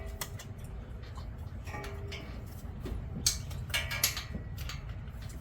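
Metal hand tools clinking and knocking in a few short, irregular clusters, with brief metallic ringing, as a socket and wrench are handled against metal. A steady low rumble runs underneath.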